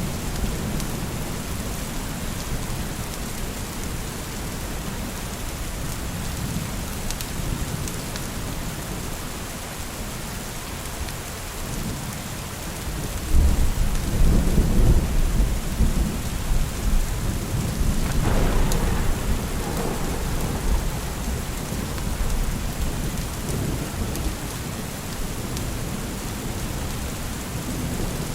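Steady rain falling, with a long roll of thunder rumbling in about halfway through and slowly fading.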